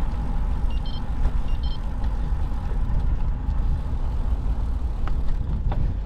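Steady low rumble of wind and road noise while riding a bicycle along a road, with car traffic in it.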